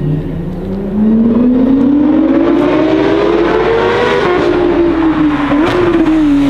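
A performance car's engine accelerating hard, its pitch rising steadily for about four seconds, then dropping and falling slowly as it carries on at a lower pitch.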